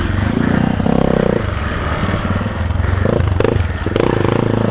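Hero Xpulse 200 single-cylinder dirt bike engine running and being revved in short throttle bursts, its pitch rising and falling.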